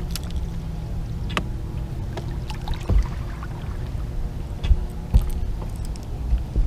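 Steady low hum of a fishing boat on the water, with scattered sharp knocks and clicks.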